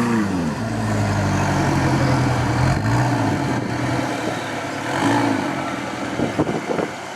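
Rock crawler's engine falling off a rev, then running at a steady low pitch with short throttle blips about three and five seconds in. It is quieter near the end, with a few sharp knocks.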